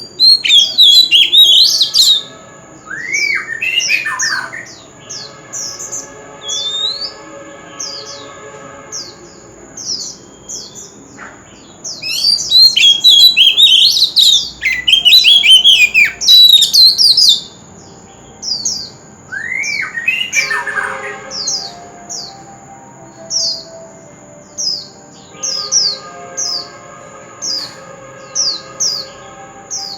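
Oriental magpie-robin singing: loud bursts of varied whistles and harsh notes at the start and around the middle, then a long run of short falling whistled notes, about one and a half a second. A thin, steady high whine runs behind the song.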